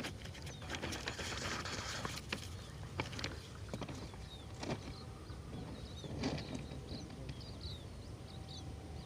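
Outdoor ambience: a steady low rumble with a few sharp clicks and knocks in the first few seconds, and short high chirps, like small birds, scattered through the second half.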